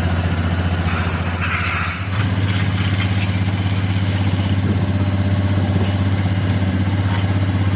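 An engine idling steadily with a low, even hum, its pitch shifting slightly about two seconds in. A short hiss sounds about a second in.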